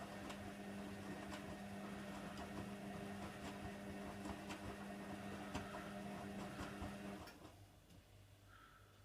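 Hoover Nextra HNWL7146 washer dryer running mid-wash: a steady motor hum with light ticking, which stops about seven seconds in, leaving only a faint low pulsing.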